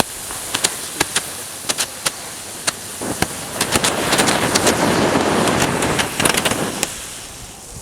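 Burning plastic crackling and popping, with sharp irregular snaps over a hissing flare that swells in the middle and dies back near the end.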